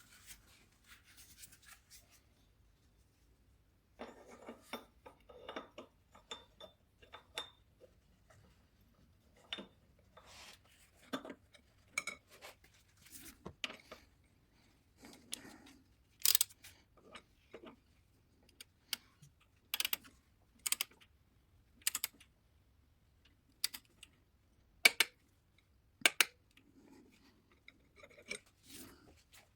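Irregular sharp clicks and metallic clinks from hand tools and parts being handled, with some rubbing in between; the loudest clinks come in the second half.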